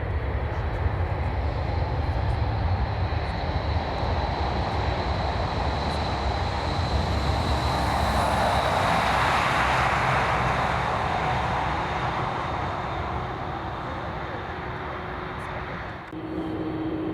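A jet airliner's engines pass close by, rising to a peak about halfway through and then fading, with a steady high fan whine over a low rumble. The sound changes abruptly about a second before the end.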